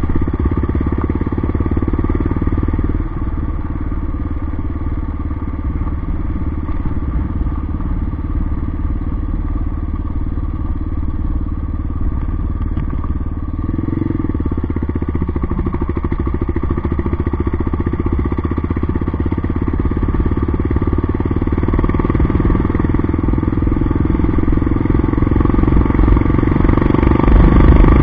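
Yamaha XT 600's air-cooled single-cylinder four-stroke engine running under way on a dirt track. The engine note eases a few seconds in, picks up again about halfway, and grows louder near the end.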